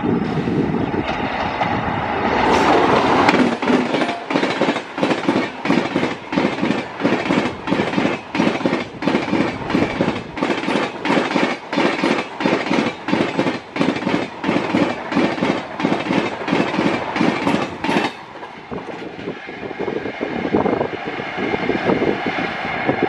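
A train of LHB coaches behind an electric locomotive passing close at speed. The rush peaks as the locomotive goes by about three seconds in, then the coaches' wheels clatter past in a fast, even clickety-clack of about two beats a second. The clatter stops suddenly as the last coach passes, leaving a quieter fading rumble.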